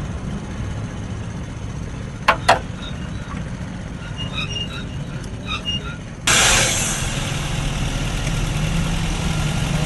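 Toyota GLI 1.3 four-cylinder petrol engine running, with two sharp clicks about two seconds in. About six seconds in the sound jumps suddenly louder and brighter and stays up. The engine has a misfire that the mechanic puts down to faulty ignition coils.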